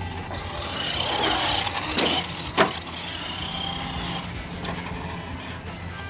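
Electric motor of a 1/10-scale FMS Ford F-100 RC monster truck whining as it speeds up and slows down, with two sharp knocks about half a second apart a couple of seconds in, the second the louder, as the truck bangs down on hard ground.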